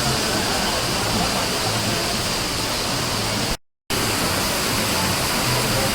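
Steady hiss of heavy rain and running water, with the low hum of a bus engine underneath. The sound cuts out completely for a moment a little past the middle.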